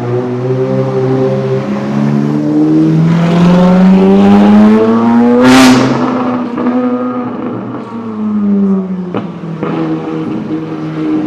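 A sports car's exhaust under hard acceleration, its note rising steadily to a loud peak about halfway through as the car passes close by, then falling away. A sharp crack sounds near the end.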